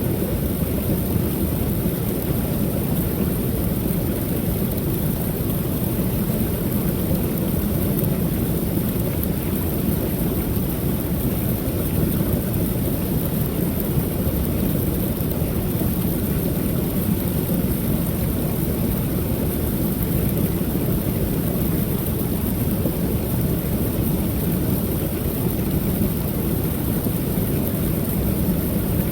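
Creek waterfall rushing steadily: an even, unbroken sound of falling water, heaviest in the low end.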